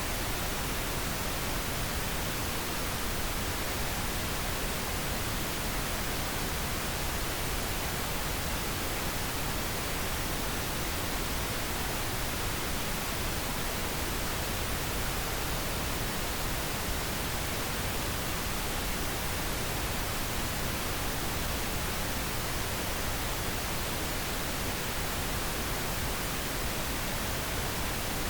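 Steady, unbroken pink noise: an even hiss that does not change.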